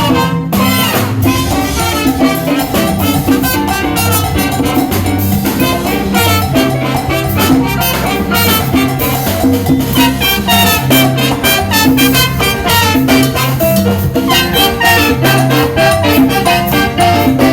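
Salsa band playing: piano figures over electric bass and drum kit, with a steady beat.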